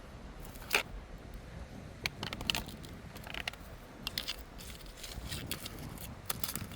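Irregular small mechanical clicks and short rattles, the sharpest less than a second in, over a low steady background.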